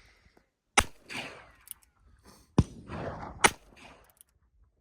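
Three gunshots, each with a short echo: one about a second in, then two more close together past the middle.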